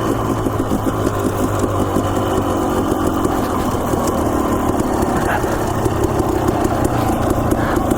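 Dirt bike engine running at low, steady revs while riding a trail.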